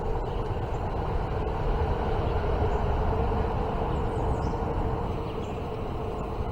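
Kayak motor running steadily, a constant hum over a low rumble.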